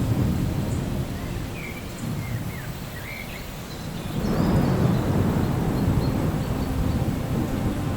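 Rolling thunder over steady rain: a low rumble dies away over the first few seconds, then a second rumble swells about four seconds in and rolls on. A few short high chirps sound about two to three seconds in.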